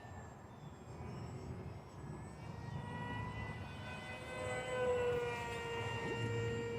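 Electric motor and propeller of an Aeroscout S2 RC plane running with a steady whine and a stack of overtones, growing louder to its peak about five seconds in.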